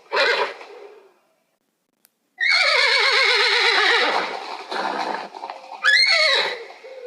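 An animal calling: a short call at the start, then after about a second of quiet one long, quavering call that falls in pitch, and a shorter call rising then falling near the end.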